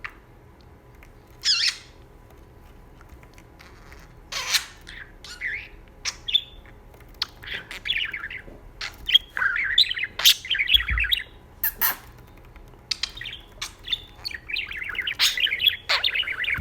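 Pet budgerigar chattering and warbling with short chirps and squawks, starting as scattered calls and turning into busier, near-continuous warbling in the second half.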